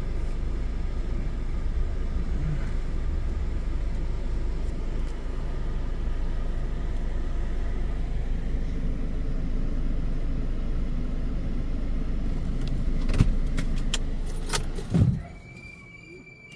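Car engine idling with a steady low rumble. A few sharp knocks come near the end, then the sound cuts off suddenly and goes much quieter.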